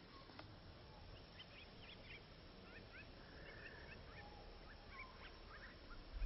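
Faint bird calls: many short high chirps scattered through, with a few brief falling notes, and a low bump at the very end.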